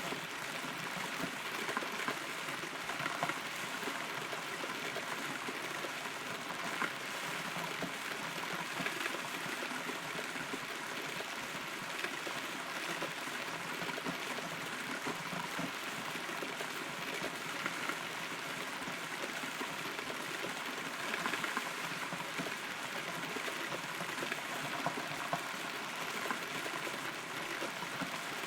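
Steady rain heard from inside a hollow rotten tree: a dense patter of drops, with scattered louder drips landing close by.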